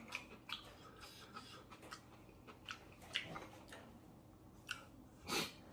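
Faint sounds of someone eating ramen: quiet chewing with scattered small clicks, and a short louder mouth sound near the end.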